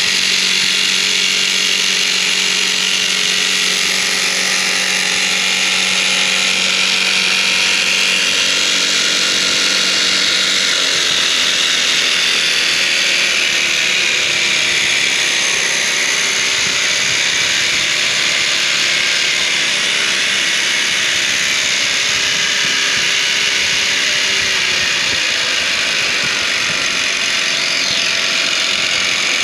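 Brushless motor spinning a 3D-printed gearbox, a steady mechanical whir and gear whine. A low hum drops out about ten seconds in, and the pitch drifts slowly as the speed changes.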